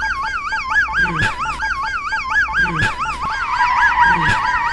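Siren in a fast up-and-down warble, about four swings a second. A short low sound repeats about every second and a half beneath it, and a second, steadier tone joins past the middle.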